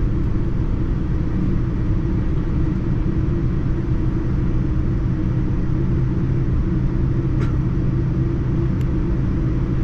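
Steady low rumble of a Boeing 787-9 airliner's cabin: engine and airflow noise, with two faint clicks near the end.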